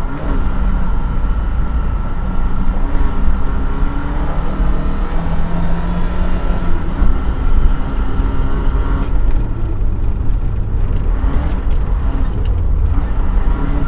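Volvo 244 rally car's engine running hard under load, heard from inside the cabin. It has a heavy low rumble, and its revs rise and fall through the stage, with the note changing and the sound going duller about nine seconds in.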